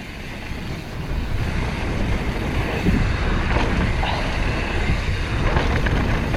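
Wind buffeting the microphone and mountain bike tyres rolling over a rocky dirt trail at speed, growing louder over the first couple of seconds and then holding steady.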